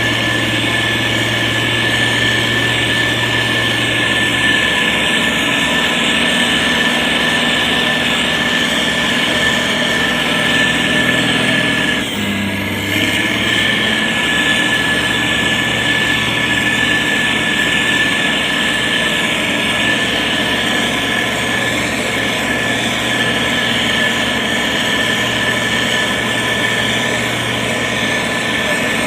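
Motor grader's diesel engine running steadily under load, with a high steady whine over it; the sound dips briefly about twelve seconds in.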